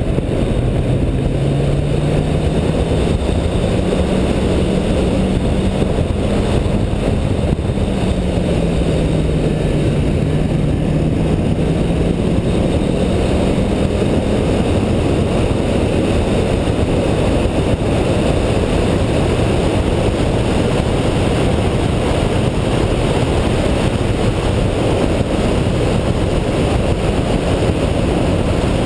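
Car engine running at speed on a race track under a steady loud rush of wind and road noise. The engine note rises, dips about eight seconds in and climbs again, then is lost in the rush for the second half.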